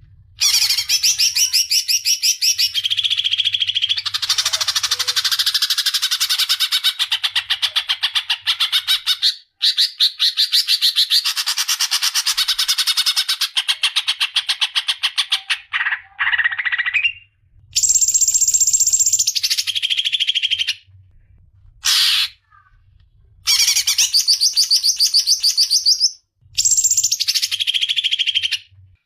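Songbird singing long phrases of rapid, high repeated notes, each running a few seconds, with short pauses between; a masteran tutor song for training cage birds.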